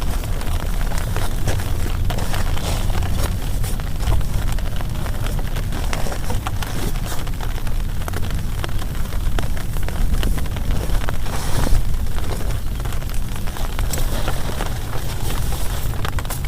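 Heavy rain beating on a plastic tarp: a loud, dense crackle of drops, steady throughout, with sharper single hits here and there.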